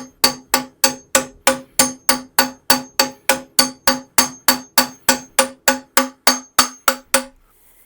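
Socket over a new fork seal being tapped gently and evenly, about three taps a second, each tap ringing, driving the seal into the fork leg. The taps stop near the end. A change in the sound of the taps is the sign that the seal is seated.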